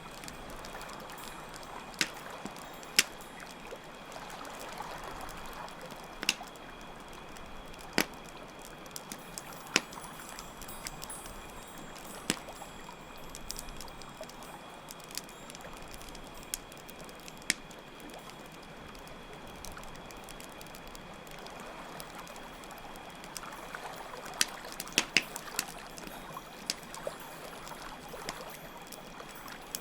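Layered night ambience: a campfire crackling with scattered sharp pops, a cluster of them near the end, over flowing water and a steady high chirring of crickets.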